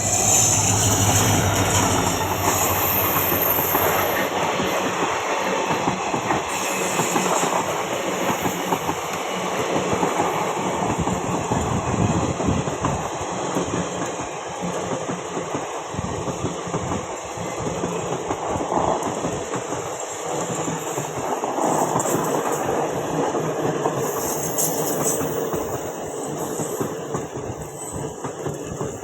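An EMD WDG4 diesel locomotive passes close by in the first few seconds with a deep engine hum. A string of ICF passenger coaches follows, rolling past with steady clickety-clack wheel clatter over the rail joints.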